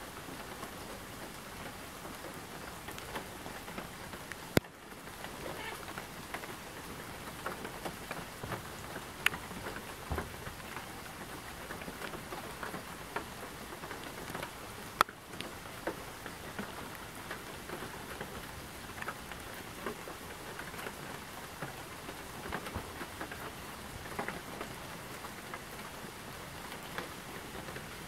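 Steady rain falling, with many small drops pattering and dripping close by. Three sharp, louder clicks stand out, at about four and a half, nine and fifteen seconds in.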